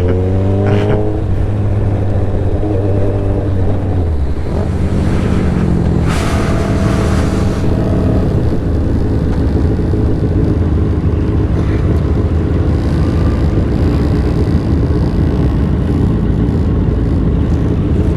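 Motorcycle engine running at road speed, with a constant rush of wind noise. The engine note changes about four seconds in, and a brief louder rush of noise comes about six seconds in.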